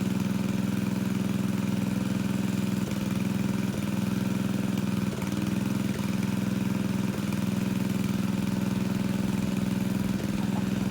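Engine of a pond-draining water pump running steadily at a constant speed.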